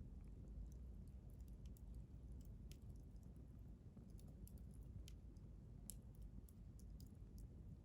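Wood campfire crackling faintly: irregular sharp pops and ticks over a low, steady rumble.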